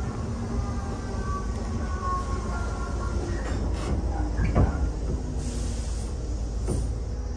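Electric commuter train heard from inside the car as it slows into a station: a steady rumble of wheels on rail with faint brake squeals and a couple of knocks from the rails near the middle.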